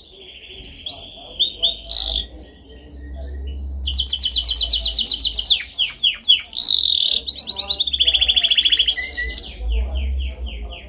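Domestic canary singing a continuous song of rapid high trills and rolls, with a run of quick downward-sliding notes about halfway through.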